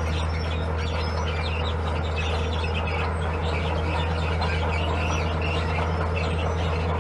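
Diesel engine of a heavy earthmoving machine running at a steady pitch, with birds chirping over it.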